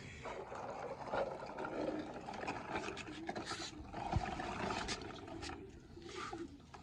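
Irregular scraping and rustling with scattered clicks and knocks, easing off near the end.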